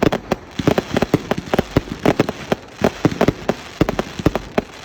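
Fireworks display going off: a dense, irregular run of sharp bangs and crackling pops, several a second.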